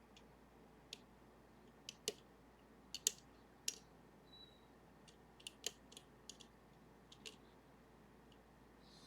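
Lock picks working the levers of a Sargent and Greenleaf 4440 safety deposit box lever lock: small, irregular clicks of the tools and levers, the loudest about three seconds in.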